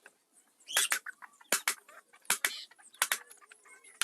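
Carving chisel being struck into teak wood: a string of sharp wooden knocks, about six in all, some coming in quick pairs.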